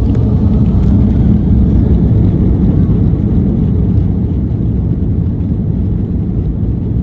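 Airbus A330-200 jet airliner during its takeoff: a steady, loud low rumble of engines and rolling noise.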